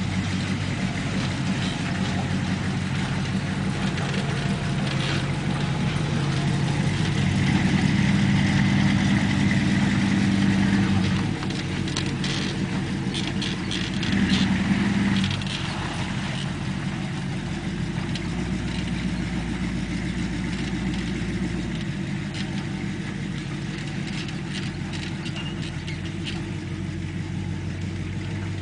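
Pickup truck engine running steadily, revving up harder for a few seconds in the middle and again briefly a little later.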